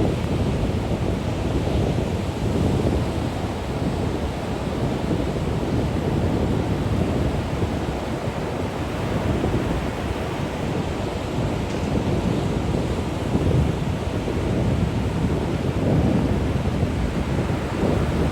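Wind buffeting the microphone: a steady low rumble that swells and dips irregularly.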